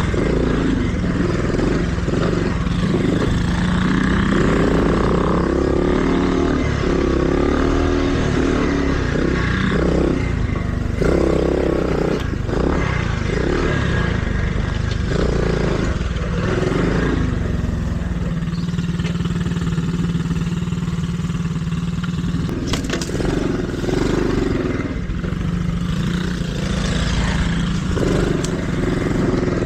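Small dirt bike engine running through the gears and throttle, its pitch rising and falling as the bike is ridden along a bumpy trail, with a few knocks a little after the middle.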